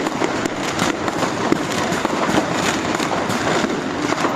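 Dense New Year's Eve fireworks and firecrackers, many overlapping bangs and crackles going off continuously at a steady loudness.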